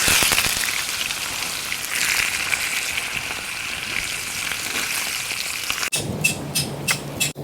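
Steak sizzling as it fries in a hot pan, a loud, even hiss. About six seconds in the sound cuts to a few sharp crackles over a low steady hum.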